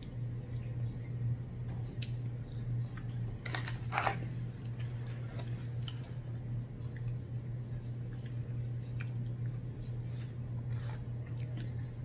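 Close-miked chewing of french fries and fried catfish: wet mouth clicks and smacks, with one louder cluster about four seconds in. A steady low hum runs underneath.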